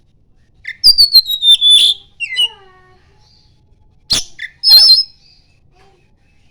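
Oriental magpie-robin (kacer) singing in separate bursts: a whistled phrase falling in pitch with sharp clicks about a second in, a short sharp note around four seconds, then a quick warbled trill.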